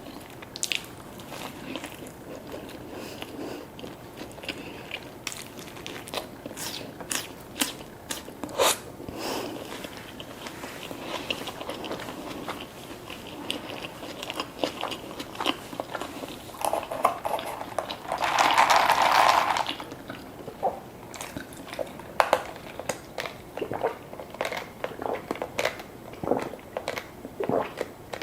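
Close-up eating sounds: repeated bites, crunching and chewing of fast food. About two-thirds of the way through there is one louder hissing rush lasting about a second and a half.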